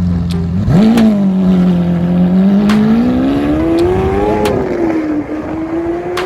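A supercar's engine accelerating hard. Its pitch jumps up under a second in and climbs for several seconds, then drops at an upshift and holds steadier. Sharp cracks are heard here and there.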